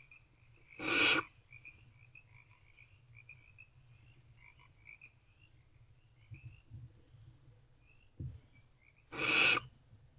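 Barn owlets giving two harsh begging hisses, each about half a second long and some eight seconds apart, over a steady background chorus of frogs calling.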